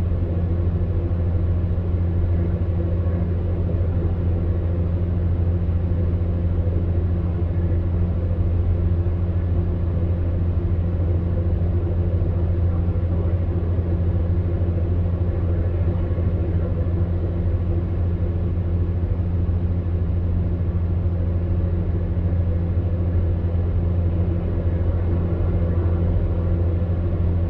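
Electric fan heater running: a steady low hum from its motor over an even rush of blown air.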